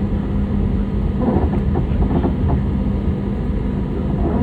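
Airliner cabin noise: jet engines and airframe giving a steady rumble with a constant low hum.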